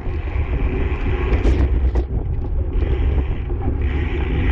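Wind rumbling heavily on the microphone of a camera riding on a racing bicycle at speed, with a hiss that comes and goes.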